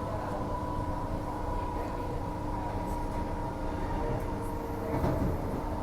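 Transperth A-series electric multiple unit running, heard from inside the front car: a steady electric whine over a low rumble of wheels on track, with a brief shift in the whine's pitch near the end.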